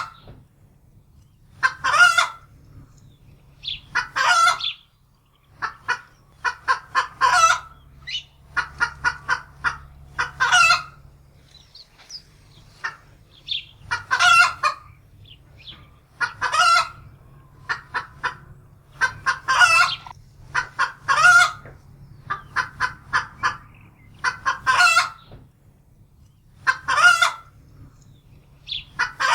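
Domestic hen cackling in alarm: quick runs of short clucks, each ending in a longer, drawn-out squawk, repeating every two to three seconds.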